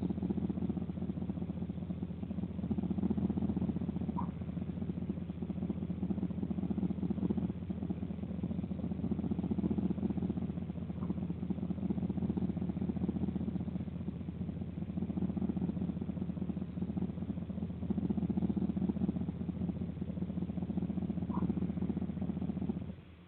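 A steady low mechanical hum, like an engine idling, that cuts off abruptly near the end. Three faint, short, high chirps sound over it.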